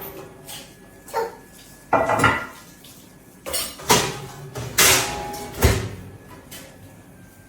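Kitchen pots, pans and utensils being handled: a run of separate clanks and knocks, about one a second.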